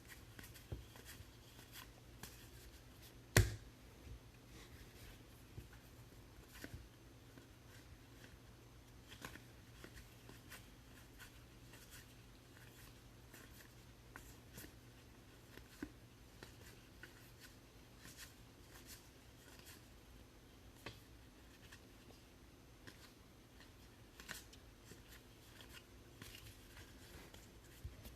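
Faint handling of trading cards and packs: soft scattered clicks and rustles of cards being flipped and sorted over a low steady hum, with one sharper knock about three seconds in.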